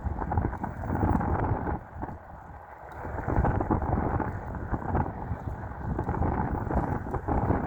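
Wind buffeting the microphone: a gusty rumbling hiss that eases briefly about two seconds in.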